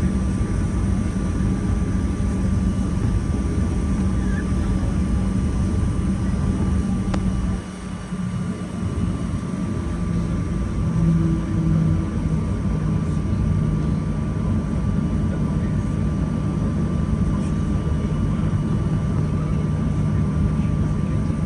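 Boeing 737-800 cabin noise with its CFM56 engines running: a steady rumble and hum. The low rumble dips briefly about eight seconds in, and the engine tone shifts in pitch soon after.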